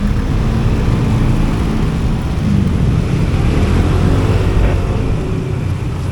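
Vehicle engines running in slow, congested traffic: a loud, steady low hum with engine tones shifting slightly in pitch.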